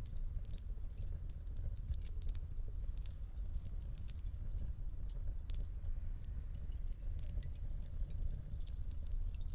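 Fireplace fire crackling: many quick, irregular sharp pops and snaps over a steady low rumble of burning.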